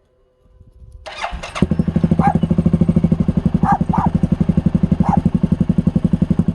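Suzuki KingQuad 750 ATV's single-cylinder engine with an HMF Swamp Series XL exhaust starting: it turns over about a second in, catches quickly and settles into a loud, fast, evenly pulsing idle.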